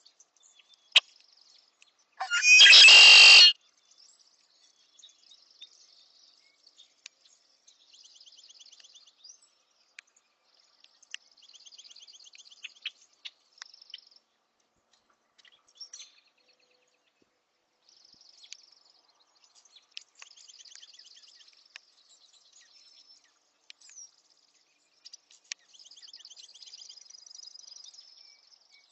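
A bird gives one loud, harsh scream lasting about a second, a little over two seconds in. Faint, high, rapid trilled chirps of small birds at a feeder come and go through the rest of the time.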